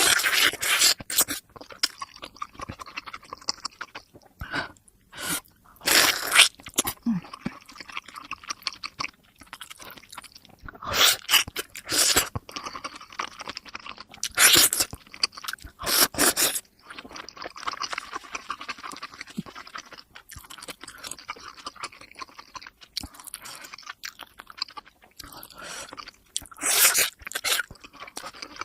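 Close-miked chewing and biting of momo dumplings, sped up to double speed: a constant patter of wet mouth and chewing clicks, with louder crunchy bite bursts every few seconds.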